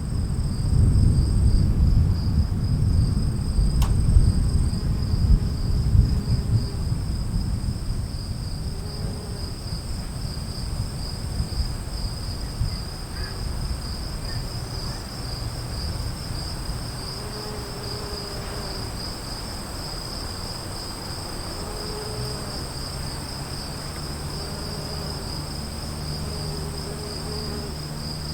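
Low thunder rumbling over the first several seconds and fading away, over steady chirping crickets that carry on throughout.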